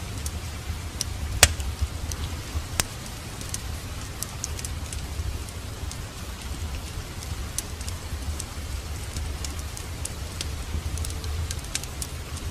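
Wood fire crackling in a fireplace over steady rain, with a low rumble and scattered sharp pops, the loudest about a second and a half in.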